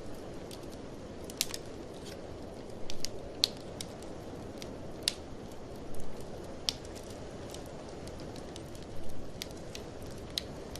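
Wood fire in a fireplace crackling with sharp, irregular pops, over a steady low rush of blizzard wind.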